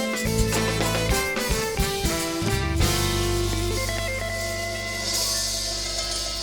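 Live band of guitar, bass, drums, percussion, keyboard, saxophone and trumpet playing a groove with quick drum hits and melodic runs, then about three seconds in landing on a long held chord with a sustained bass note and ringing cymbals.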